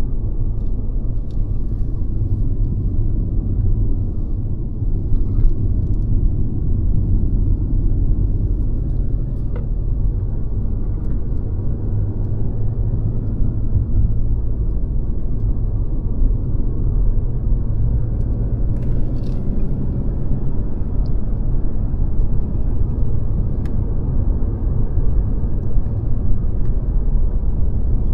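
Mercedes-Benz C-Class (W206) being driven at a steady pace: a low, even rumble of engine and road noise, with a few faint ticks.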